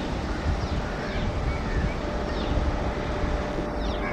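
Electric locomotive and express coaches approaching: a steady rumble with a faint hum. Short high bird chirps repeat over it, and the rumble grows louder at the very end as the train draws near.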